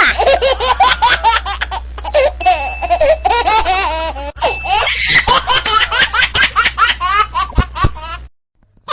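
A young child laughing hard in rapid, repeated bursts over a steady low hum. The laughter cuts off suddenly about eight seconds in.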